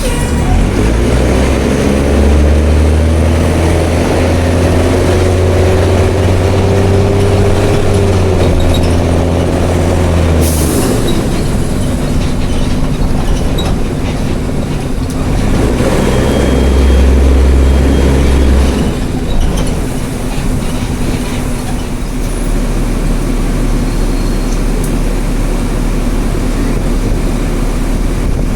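Mercedes-Benz OM366LA turbocharged inline-six diesel of a city bus, running through an open straight-through exhaust: it pulls under acceleration with rising pitch for about ten seconds, breaks off with a short hiss, pulls again for a few seconds in the middle, then runs more evenly and quietly.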